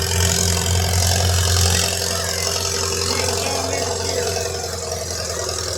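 A vehicle engine idling with a steady low hum that eases off about two seconds in.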